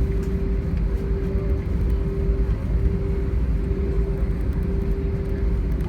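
Steady cabin noise inside an Airbus A320: a constant low rumble with a steady hum held at one pitch and no change in level.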